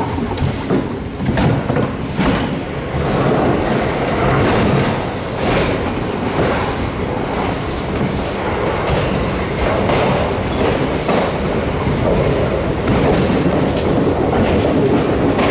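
Electric commuter train running along the track: a steady rumble of wheels on rail, with irregular clicks and clatter as the wheels cross rail joints and points. The train enters a tunnel partway through.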